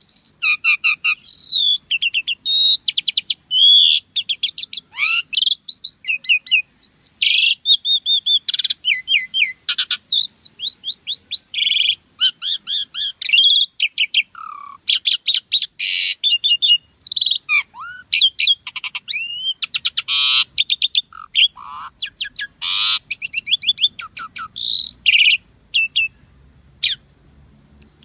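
Pied starling (jalak suren) singing without pause, a rapid, varied run of whistles, sweeping glides and chattering notes.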